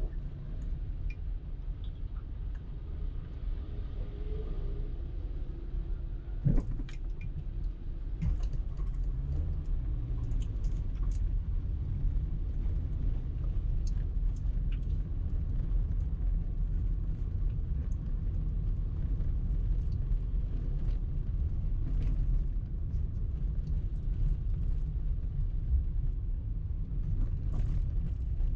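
Car cabin noise while driving: a steady low rumble of engine and tyres on the road, with scattered light clicks and one sharper knock about six seconds in.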